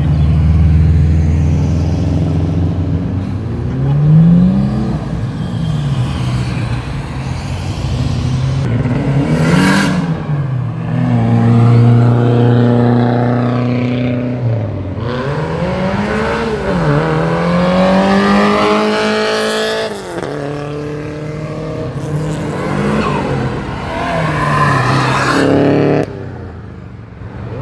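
Classic Japanese car engines idling and revving as the cars drive out past. There are several short throttle blips and one long climbing rev that drops off suddenly about two-thirds of the way through.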